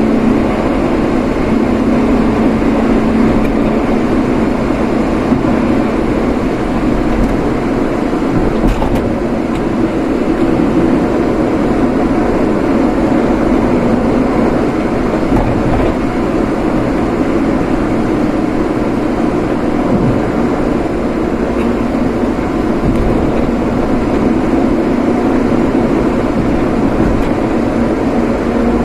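A vehicle being driven at a steady pace: a constant mix of engine and road noise with a steady low hum, and no marked revving or change.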